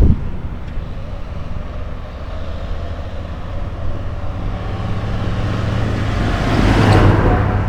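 Tractor engine running steadily, then growing louder to a peak near the end before easing slightly.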